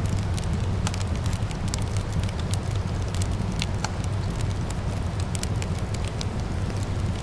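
Wood fire in a fireplace crackling, with many small, irregular pops and snaps over a steady low rumble.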